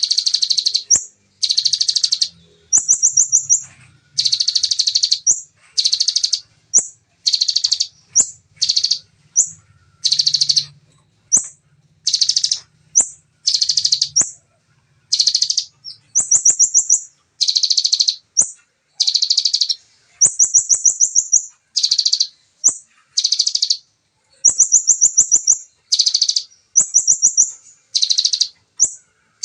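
Bar-winged prinia (ciblek) singing its rapid-fire 'tembakan' song: dense, fast-trilled high bursts under a second long, repeated about every second and a half. Some bursts are higher-pitched, and short single notes fall in between.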